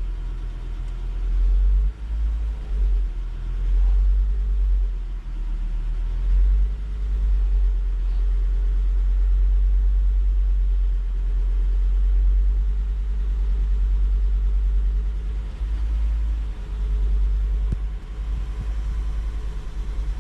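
Volvo V70 2.4 non-turbo five-cylinder petrol engine running with a steady low rumble while misfiring on cylinders 1 and 2; the misfire is caused by a failed spark plug with damaged porcelain.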